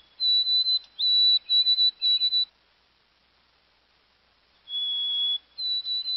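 A songbird singing clear whistled notes: one held note followed by a run of about four slightly higher notes, a pause, then the same song again.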